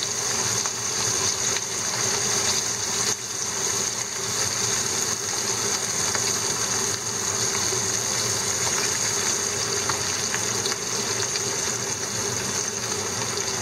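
Opened horse mackerel deep-frying in a pan of hot oil, with a steady sizzling and bubbling.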